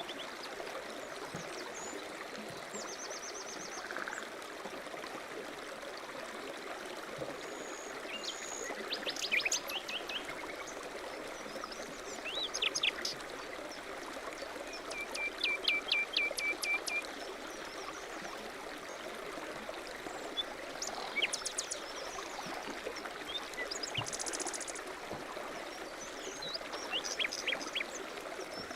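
A mountain stream runs steadily while small songbirds call over it in short bursts of quick chirps and trills. The loudest bursts come about a third of the way in and again near the middle.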